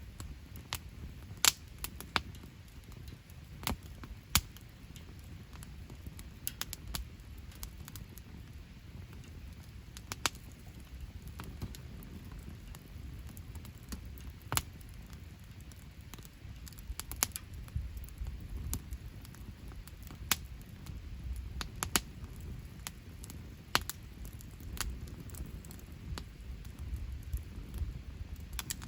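Wood fire in a fire pit crackling, with irregular sharp pops and snaps, several louder than the rest, over a low steady rumble.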